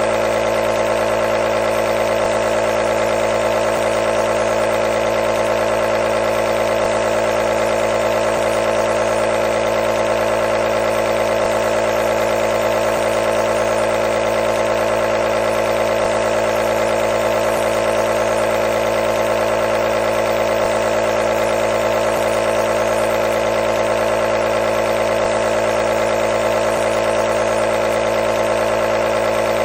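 Nebulizer running with a steady, unbroken motor hum, its strongest tone a mid-pitched buzz.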